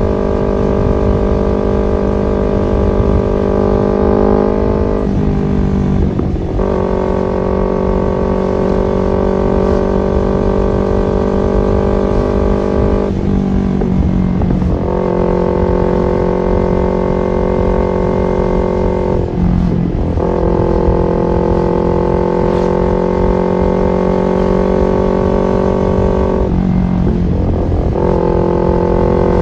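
Kawasaki Ninja 250fi's twin-cylinder engine breathing through an R9 H2 SS aftermarket exhaust while riding, holding steady revs. About every six to seven seconds the note dips briefly and then settles again, as with a gear change or throttle roll-off.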